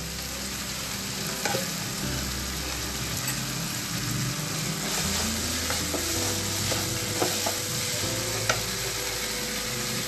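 Chopped vegetables sizzling in a hot oiled pan while being stirred with a wooden spatula, with a few sharp knocks of the spatula against the pan.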